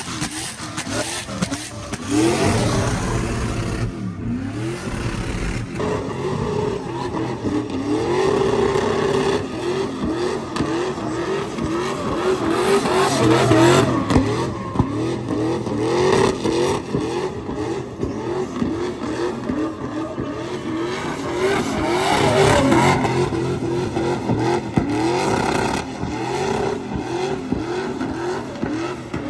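Pickup truck engine revved hard over and over, its pitch climbing in quick repeated surges.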